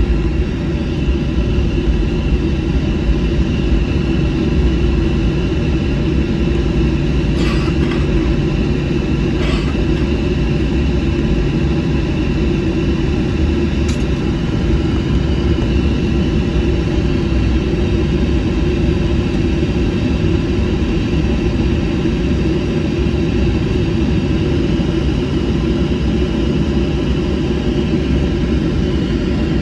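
Jet airliner cabin noise: the engines run steadily, a constant rumble with several held tones over it. A few faint ticks come through in the first half.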